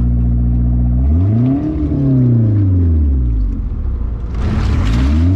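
Car engine idling, then revved from idle with its pitch rising and falling back about a second in, and blipped again near the end. A short burst of hissing noise comes between the two revs.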